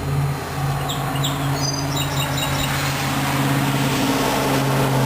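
A steady, fairly loud engine hum with a low even pitch, and a few short bird chirps between about one and two and a half seconds in.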